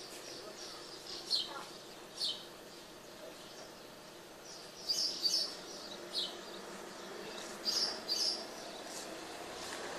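Small birds chirping: short, sharp falling chirps, singly and in quick clusters every second or two, over faint steady background noise.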